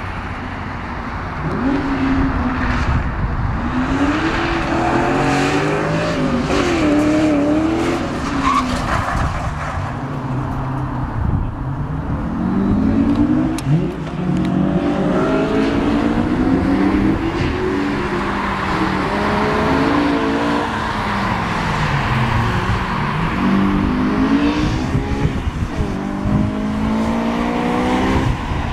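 A Honda S2000's four-cylinder engine, driven hard on an autocross run, revving up and dropping back again and again as the driver accelerates and lifts between the cones.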